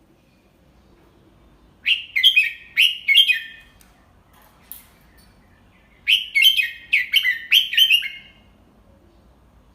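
Red-whiskered bulbul singing two short phrases of quick, sweeping whistled notes, the second starting about four seconds after the first.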